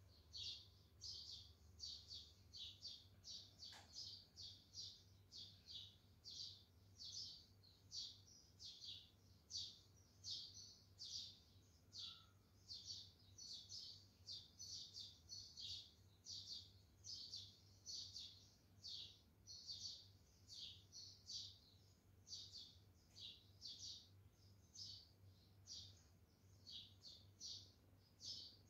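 Faint bird chirping: short high chirps repeating about twice a second without a break, over a faint low hum.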